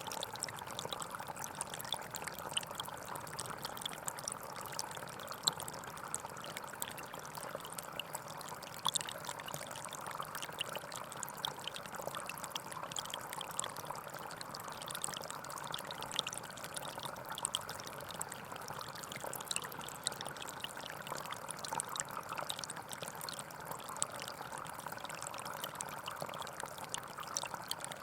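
Small forest stream flowing steadily: a continuous rushing with many small splashes and trickling clicks.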